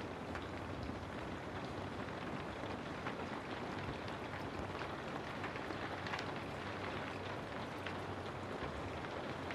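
Steady rain falling, an even hiss with many individual drops heard as small, scattered ticks.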